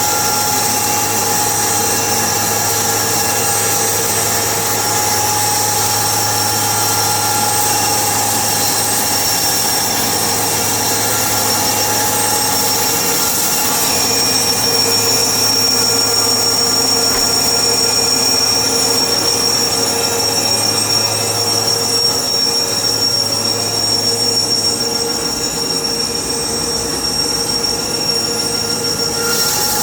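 Sawmill saw running through a log: a continuous high-pitched whine over a steady low hum, its pitch shifting about halfway through.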